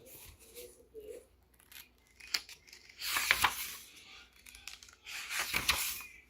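Paper pages of a book being handled and turned: two rustling sweeps, about three seconds in and again near the end, with small taps and clicks between them.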